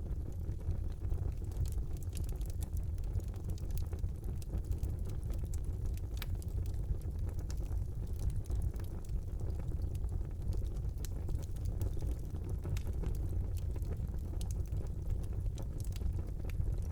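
Wood fire burning in a brick fireplace: a steady low rumble of flames with scattered small crackles and pops throughout.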